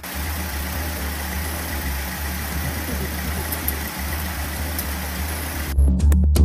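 An engine running steadily at idle. About five and a half seconds in, electronic music takes over.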